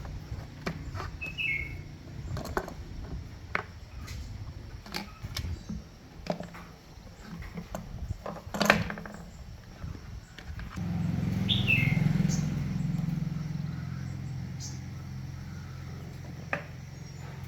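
Irregular clicks and knocks, with one loud clank a little past halfway, and a bird chirping twice; a steady low hum comes in about eleven seconds in.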